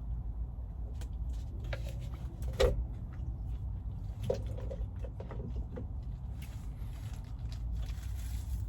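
Close-up eating and food-handling noises: scattered clicks, smacks and crinkles, with one sharper knock about two and a half seconds in and a short paper rustle near the end, over a steady low rumble.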